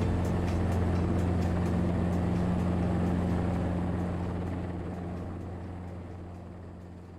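Helicopter engine and rotor drone, a steady low hum that fades out over the last three seconds.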